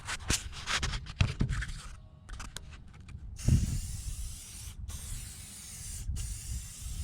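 Aerosol spray-paint can spraying in a steady hiss, starting about halfway and stopping twice for a moment. Before the spraying, a few clicks and knocks.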